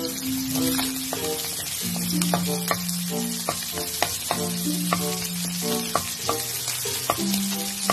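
Minced garlic and chicken pieces sizzling steadily in a hot pan, with a spatula scraping and clicking against the metal over and over from about two seconds in.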